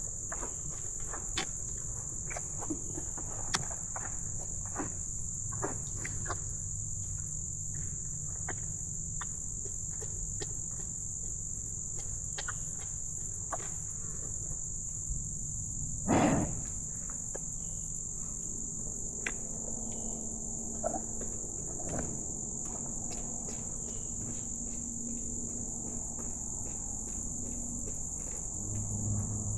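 Steady high-pitched chorus of crickets and other insects, with scattered small clicks and knocks and one louder thud about halfway through.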